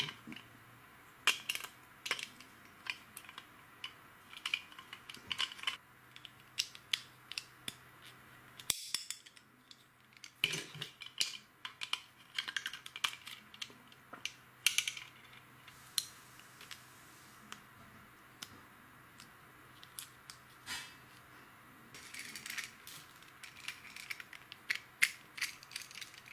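Small hard plastic pieces clicking and clattering irregularly, like LEGO bricks being handled and snapped together, with busy runs of clicks and a few quieter pauses.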